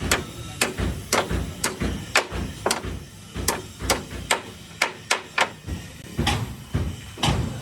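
Hammer blows on metal, struck in a steady rhythm of about two a second, typical of beating out damaged truck body panels; the strikes pause briefly near the end, then resume.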